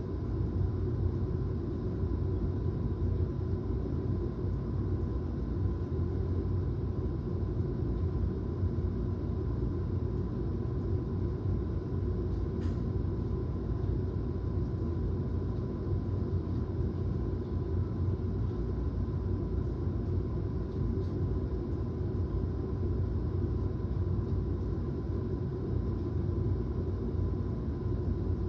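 Steady low rumbling noise of a thunderstorm recording, with no distinct thunderclaps. A faint steady tone runs underneath.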